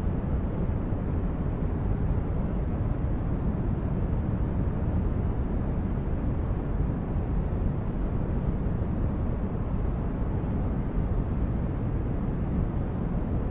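Steady low rumbling noise, brown-noise-like, used as a sci-fi spaceship ambience; it is even throughout, with no tones or events.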